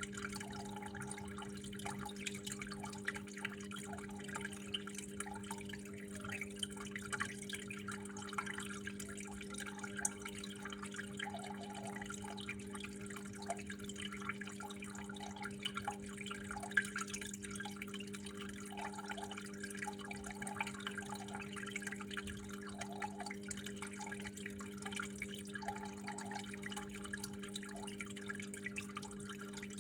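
Water trickling and dripping in a steady, dense patter of small splashes, over a constant low hum.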